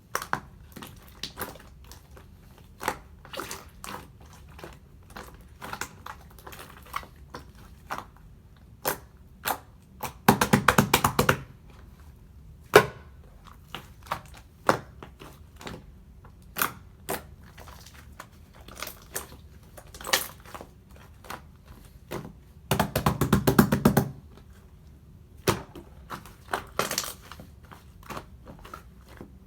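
Thick ice-cream-scoop-style slime being pressed, poked and squished by hand, making scattered sticky pops and clicks, with two spells of rapid crackling about ten seconds in and again near twenty-three seconds.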